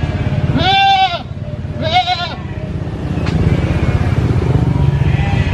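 A goat bleating twice, two drawn-out wavering calls about a second apart in the first half, over a steady low rumble.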